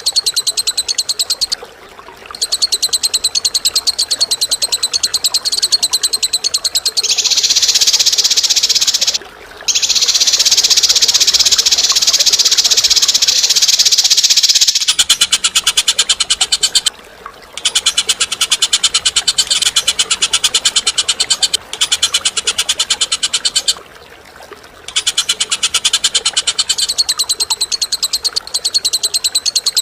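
A bird's loud, rapid chattering trill, delivered in long unbroken phrases of several seconds each, with brief pauses between them. About halfway through, the pulses become coarser and lower.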